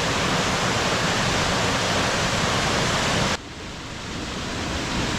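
Waterfall rushing: a loud, steady noise of falling water. About three seconds in it drops suddenly to a quieter rush, which then builds back up.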